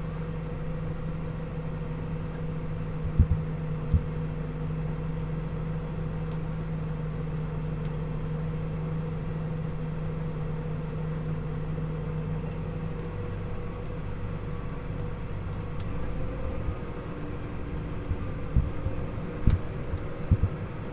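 Towing vehicle's engine running steadily at low road speed, pulling a loaded low loader. Its steady note shifts about two-thirds of the way through, and a few sharp knocks come early on and several more near the end.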